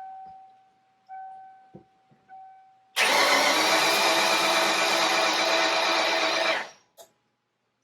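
Ford 5.0 V8 in a 1995 Mustang being cranked over on its starter for about three and a half seconds with the ignition coil unplugged, so it turns without firing, for a compression test; it stops abruptly. Before the cranking, a steady tone sounds in short stretches.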